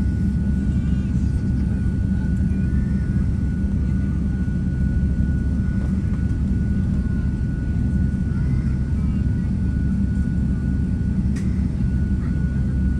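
Steady low rumble of jet airliner engines, with a thin constant whine over it and faint voices in the background.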